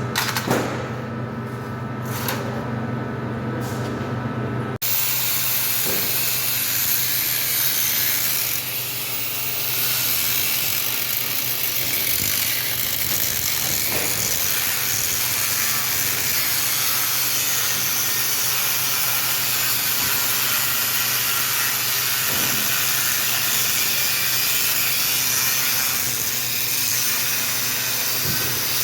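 A steady machine hum with a few clicks, cut off abruptly about five seconds in by a loud, even hiss from a workshop tool that runs on without a break.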